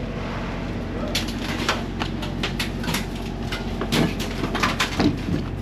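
A vehicle engine idling steadily, with a run of sharp clicks and knocks starting about a second in.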